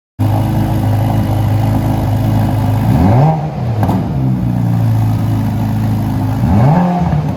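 Ferrari Roma's twin-turbo V8 idling, blipped twice, about three seconds in and again near the end, each rev rising and falling back to idle. The sound cuts in suddenly just after the start.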